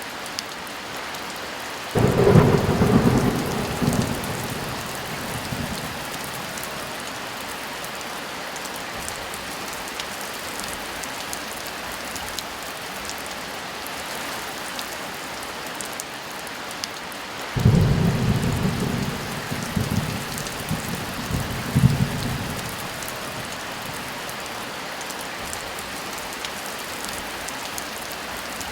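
Steady heavy rain, with thunder breaking out twice: a sudden clap about two seconds in that rumbles for a few seconds, and another about two-thirds of the way through that rolls on in several surges for about five seconds.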